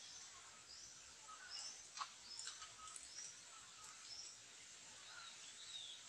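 Faint, scattered short bird chirps and whistles, with one sharp click about two seconds in.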